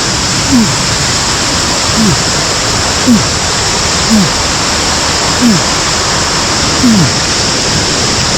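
Steady, loud rush of a mountain stream and waterfall. Over it, a short low tone dropping in pitch is heard six times, roughly once every second or so.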